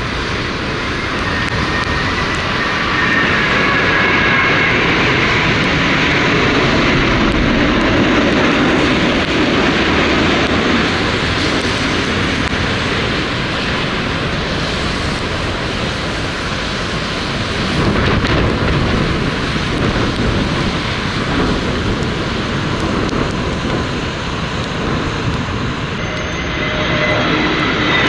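Jet airliner passing close on its landing approach: a broad engine rush that swells and eases, with a thin high engine whine a few seconds in and another whine coming in near the end.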